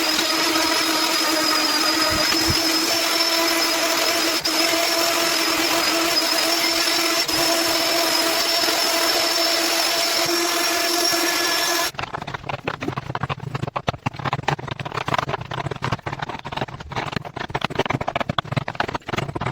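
An electric power tool running at a steady speed with a high, even whine. About twelve seconds in the whine stops abruptly and gives way to a lower, uneven sound full of rapid clicks.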